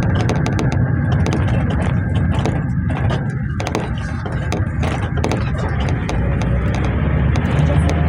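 A GAZelle route minibus running, heard from the passenger cabin: a steady engine and road rumble with frequent rattling clicks from the cabin fittings, the engine note growing stronger near the end.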